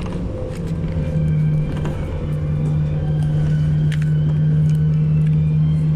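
City bus running, heard from inside the cabin: a steady low engine and drivetrain drone that settles in about half a second in, with small rattling clicks.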